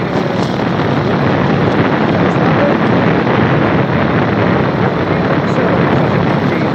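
Steady wind noise buffeting the microphone of a rider on a moving motorcycle.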